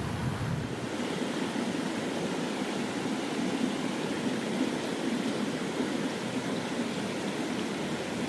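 Mountain stream water rushing steadily, with a low rumble that stops about a second in.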